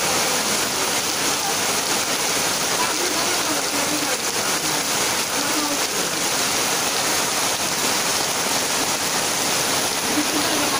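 Torrential rain on a corrugated tin roof and the ground around it: a loud, dense, steady hiss.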